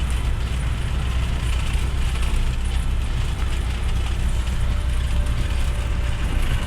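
Cessna 172's piston engine and propeller droning steadily, heard inside the cockpit as a low hum under a haze of air noise.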